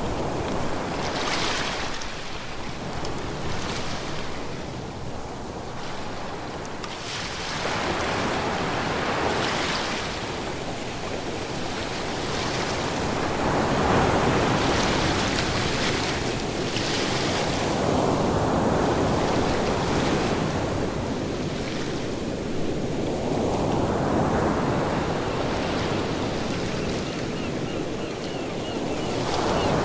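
Ocean surf: waves breaking and washing ashore, the rush of water swelling and easing every few seconds.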